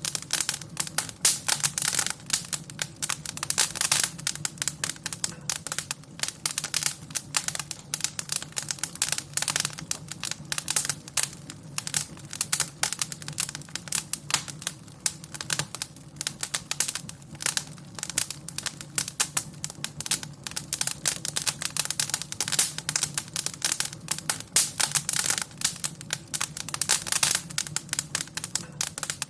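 Wood fire crackling in a fireplace: dense, irregular snaps and pops over a steady low hum.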